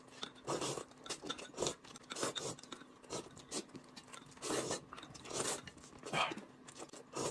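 Eating sounds: noodles being slurped and food chewed, in short, soft, irregular bursts.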